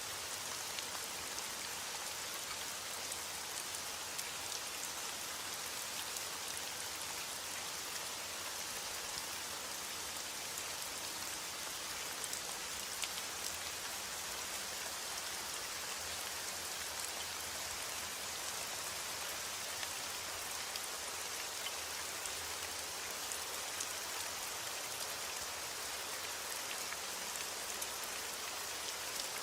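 Steady rain falling, a constant hiss with many small drop taps on a surface.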